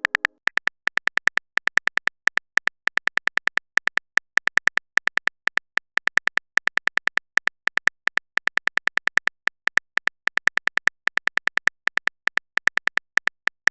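A phone-keyboard typing sound effect: a long run of short, identical high-pitched ticks, several a second in irregular bursts, like a message being typed out.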